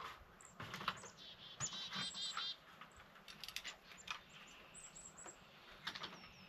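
Small songbirds chirping in short high notes, with a fast warbling trill about two seconds in, and scattered light clicks and knocks among them.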